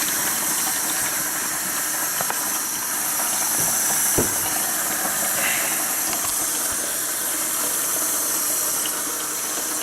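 Hot water running from a tap into a bucket as it fills for soapy wash water, a steady hiss.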